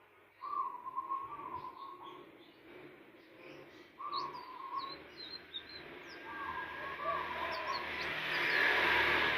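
Indigo flycatcher song as a lure recording: a short warbled phrase repeated three or four times, with high, sharp chirps over it. A noisy hiss builds up near the end.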